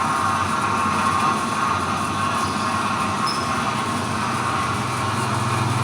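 Semi-automatic batch fryer's stirring mixer turning steadily, a continuous mechanical running noise with a low hum.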